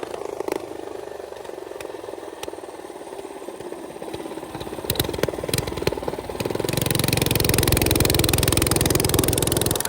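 Small minibike engine running at low speed, with a few sharp clicks about halfway through, then growing much louder for the last third.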